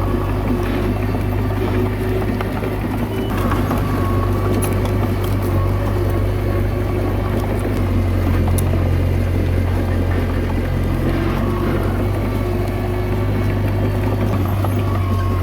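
Komatsu D21A bulldozer's diesel engine running steadily, a deep continuous drone that shifts slightly about halfway through, with a few faint clicks now and then.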